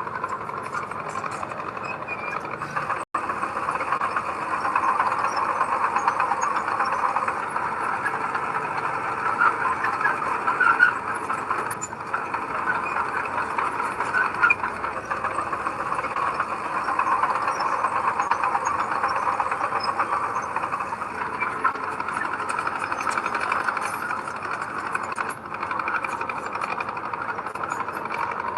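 Diesel engine of heavy earthmoving machinery running steadily. The sound drops out for an instant about three seconds in.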